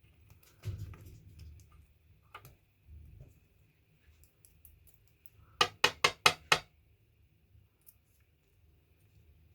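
Small metal parts handled on a workbench with scattered light clicks, then a quick run of about five sharp metallic taps a little over halfway through.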